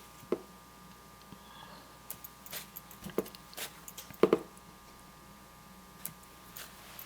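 Scattered light taps and clicks of painting tools being handled: a brush against palette, canvas or water pot. The loudest tap comes about four seconds in, over a faint steady room hum.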